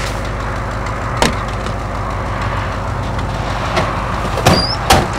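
Consumer fireworks going off outdoors: a steady hiss with a sharp crack about a second in and two louder cracks close together near the end.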